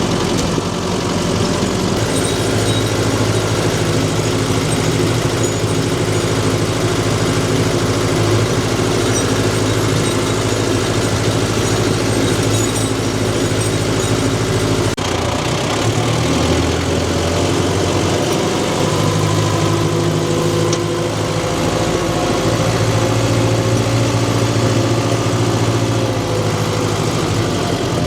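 Tractor engine running steadily, its note shifting abruptly about halfway through.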